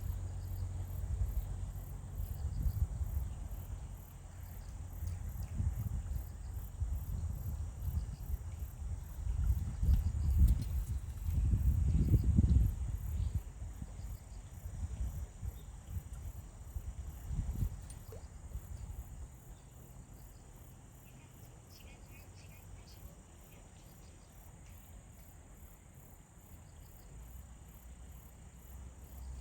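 Insects chirping in an evenly pulsed, high-pitched rhythm over a steady high tone. A low rumble is loudest about ten to thirteen seconds in and dies away after about eighteen seconds.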